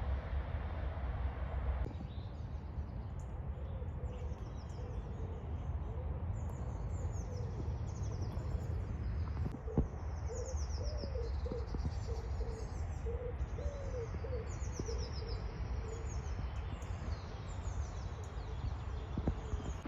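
Wild songbirds chirping and trilling again and again over a steady low rumble, joined in the middle by a lower call of short notes repeated in quick series. A couple of single clicks stand out, one about halfway through and one near the end.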